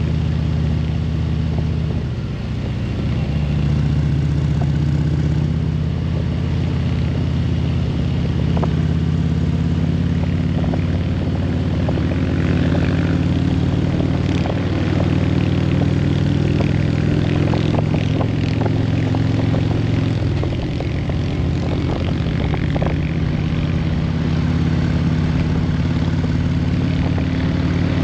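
2020 Harley-Davidson Road Glide Limited's Milwaukee-Eight 114 V-twin running steadily under way. Its note dips and changes pitch about two seconds in, then shifts again around twenty seconds in.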